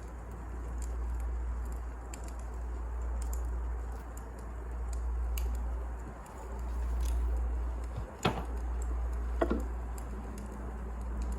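Wood fire burning in a fireplace: a low swelling rumble with scattered small crackles, and two louder pops about eight and nine and a half seconds in.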